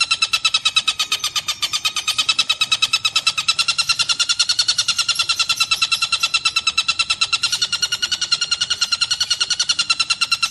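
Tengkek buto kingfisher calling in one long, unbroken rapid series of sharp notes, about ten a second, with a slight rise and fall in pitch.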